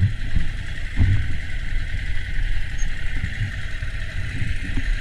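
Scrambler motorcycle engine running steadily, with a low rumble and a steady hiss over it.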